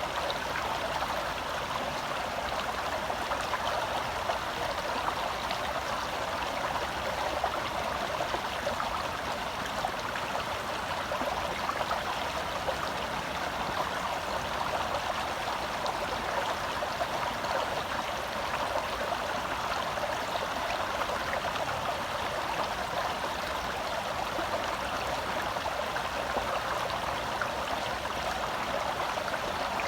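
Shallow forest stream flowing and babbling over rocks, a steady rush of water close by.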